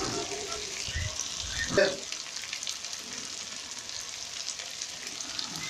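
Cooked beans frying in a pot, a steady crackling sizzle, with a brief knock about two seconds in.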